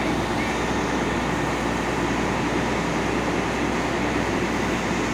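Aerial ladder fire truck's engine running steadily, a constant mechanical hum with no breaks.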